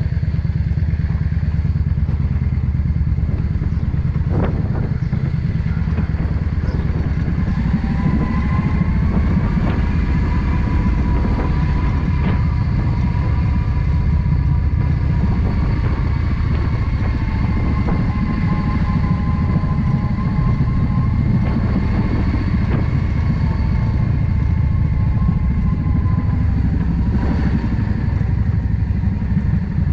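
Yamaha XVS 650 Drag Star's air-cooled V-twin engine running at low speed, a steady low rumble, with a few sharp clicks along the way. A faint thin whine rides over it through the middle stretch.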